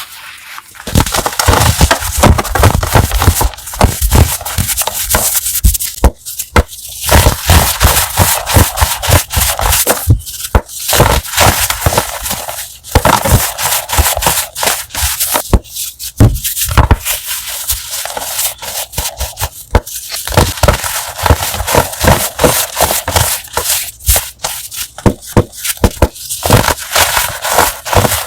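Crunchy chalk being crushed: dense, crisp crackling and crunching, broken by short pauses every few seconds.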